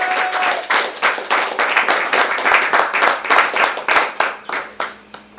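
Small audience clapping and applauding after a song, the claps thinning out and dying away near the end.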